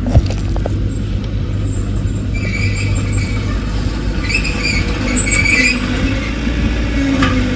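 Crawler bulldozer's diesel engine running steadily, with its steel tracks squealing on and off and a sharp clank just after the start.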